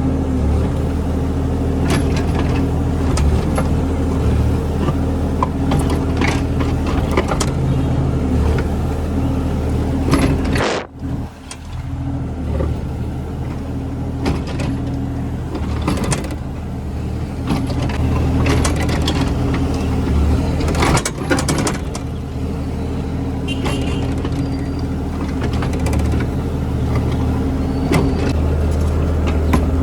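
An engine running steadily, with scattered knocks and clatters over it; the sound cuts out briefly about eleven seconds in, then carries on.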